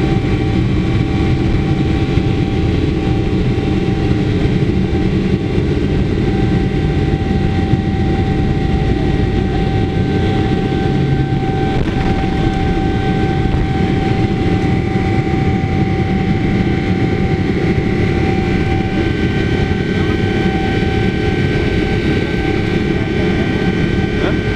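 Cabin noise inside a Boeing 777-300ER in the air after takeoff: a loud, steady rumble of airflow and its GE90 turbofan engines, with several steady whining tones running through it.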